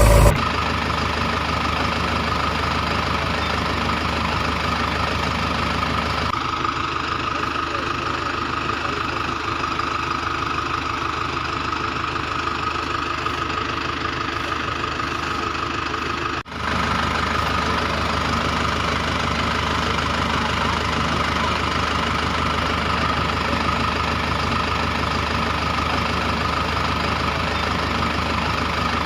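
Toy tractor engine noise running steadily at an even pitch, with a brief dropout about 16 seconds in.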